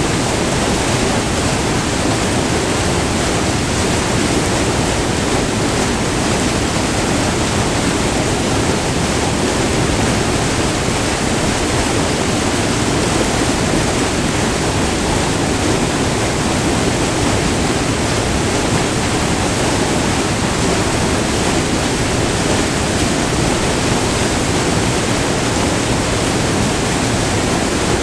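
White water tumbling over a short multi-tiered waterfall on a river: a loud, steady rushing with no let-up.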